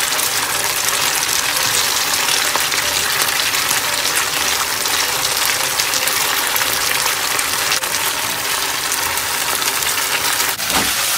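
Swimming crab pieces and chilli sauce sizzling steadily in a frying pan over high heat, with a low steady hum underneath.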